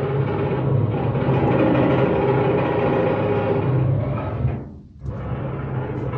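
Construction machinery heard through an apartment's walls: a loud, steady mechanical drone with a low hum. It fades out and drops away about five seconds in, then starts again.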